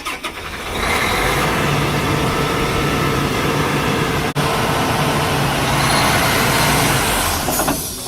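Combine's engine running under heavy load, getting louder about a second in and holding a steady low tone, then dropping off near the end. The combine is trying to turn a separator jammed with wet stems at the rear discharge beater, and it fails to turn.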